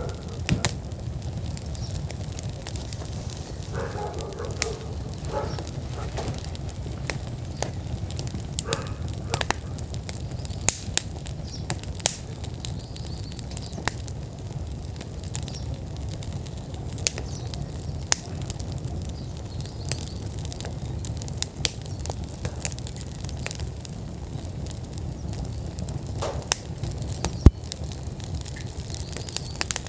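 Wood fire burning in an outdoor fire pit: a steady low rumble of flames with scattered sharp crackles and pops, one loud pop near the end.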